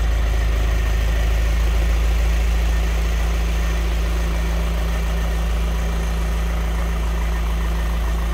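Audi A3 8P's 2.0 TDI four-cylinder diesel engine idling steadily. It now starts and runs after its no-start fault was cured by replacing the crankshaft seal with its sensor ring.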